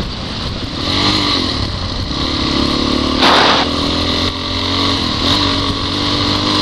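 Motorcycle engine running, its pitch rising and falling as the throttle is worked. A brief loud rush of noise comes about three seconds in.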